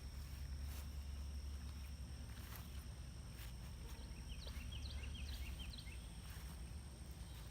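Rural outdoor ambience: a steady low rumble of wind on the microphone under a steady high insect drone, with a quick run of short, falling bird chirps about halfway through.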